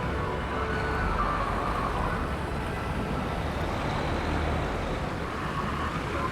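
Steady city street traffic noise: a continuous drone of passing vehicles with no sudden events.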